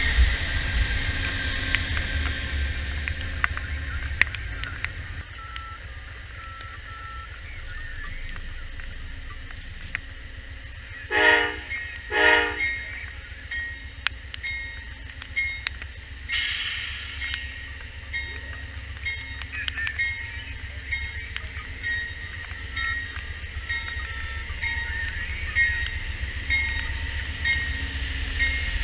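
Amtrak GE Genesis P42DC diesel-electric locomotive and its train running past with a steady low rumble. Near the middle, the horn sounds two short blasts about a second apart, and a few seconds later there is a hiss lasting about a second.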